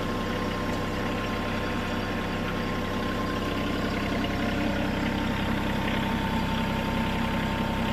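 Bad Boy compact tractor engine running steadily. About halfway through, its note drops slightly and it gets a little louder.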